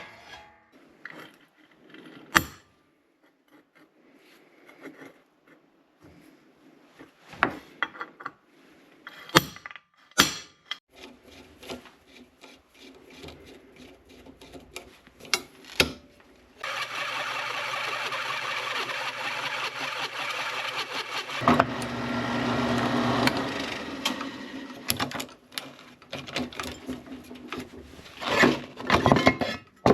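Garage tool work: scattered knocks and clanks, then a steady power tool or shop machine running for about eight seconds midway, followed by more knocks.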